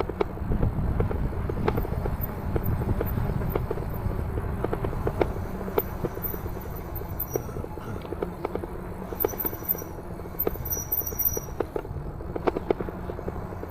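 Riding noise from an e-bike on the move: a steady low rumble, with irregular clicks and knocks like the bike rattling over an uneven surface.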